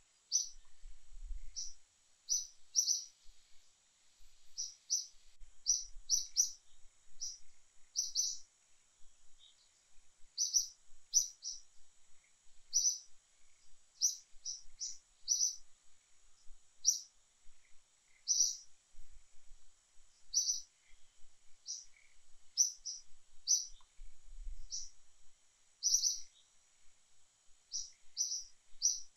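Small birds chirping: short, high calls repeated irregularly, about one or two a second, over a faint steady high-pitched whine.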